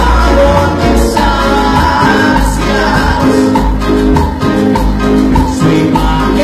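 Cumbia band playing live with a steady beat and driving bass, with some singing over it.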